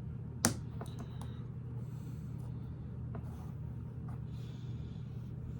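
Lego pieces clicking as they are pressed into place: one sharp snap about half a second in, then a few lighter clicks, over a steady low hum.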